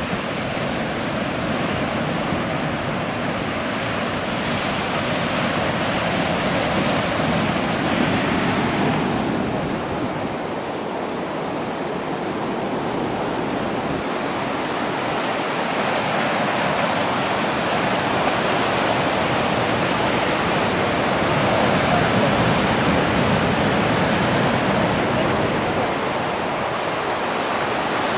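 Ocean waves washing against rocks as a continuous surf wash, swelling and easing every several seconds.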